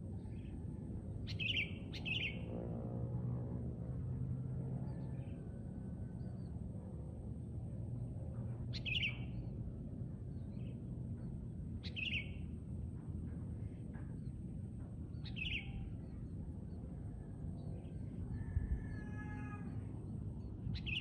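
Sooty-headed bulbul (kutilang) giving short, sharp calls, one every few seconds, with two in quick succession near the start, over a steady low background rumble.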